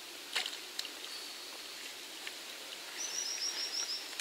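A small bird calling a quick, high trill of about eight slightly falling notes near the end, over quiet outdoor ambience. A couple of soft clicks sound about half a second in.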